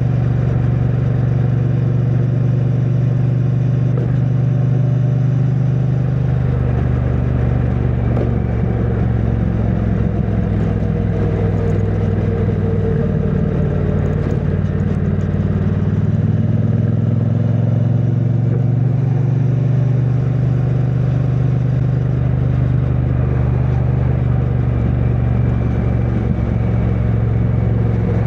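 2022 Triumph Bonneville T100's 900 cc parallel-twin engine running through its stock exhaust at road speed, picked up by a microphone inside the rider's backpack. About halfway through, the engine note drops and then climbs steadily again.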